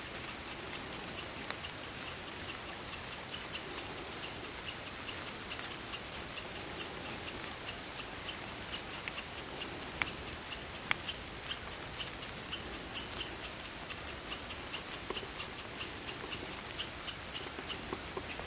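Night forest ambience: a steady hiss of rain and wind in the trees, with crickets chirping in short repeated pulses. Two sharper clicks come about ten and eleven seconds in.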